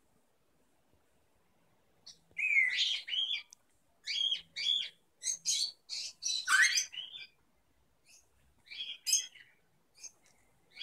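A songbird singing in short, quick phrases of high chirps and whistled glides, beginning about two seconds in and pausing briefly between phrases.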